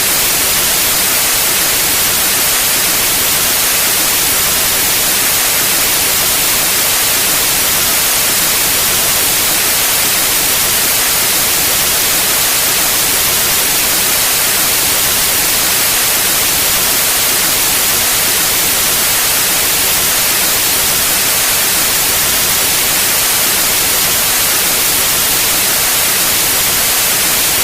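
Pure white noise: a steady, unchanging hiss spread evenly across all pitches, brightest in the high end.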